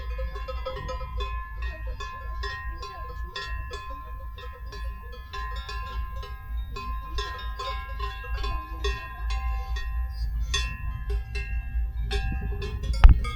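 Cowbells clanking irregularly, many strikes ringing over one another, over a steady low rumble. A single sharp knock near the end is the loudest sound.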